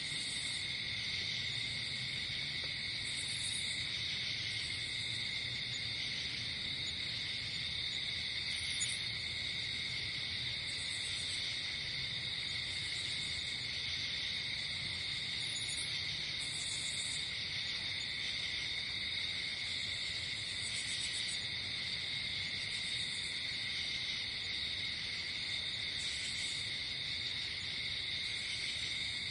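Night insect chorus: crickets trilling steadily, with short, higher chirps repeating every second or two.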